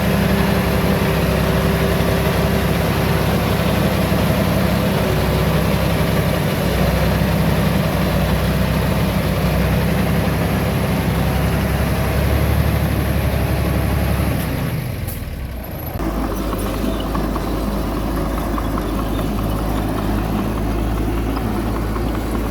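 Heavy earthmoving machinery's diesel engine running steadily. About fifteen seconds in it dips briefly and comes back with a lower, different hum.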